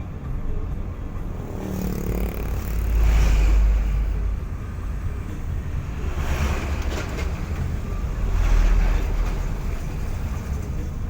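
Steady low rumble of a car on the road with tyre and wind noise, swelling louder a few times, most strongly about three seconds in and again near the end.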